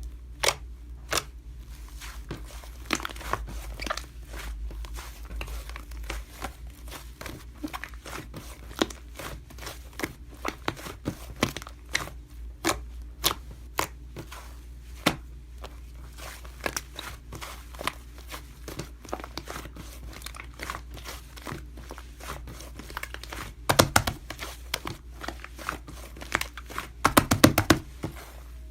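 Irregular sharp clicks and crinkling handling noises, like paper or plastic being handled, over a steady low hum, with thicker flurries of clicks near the end.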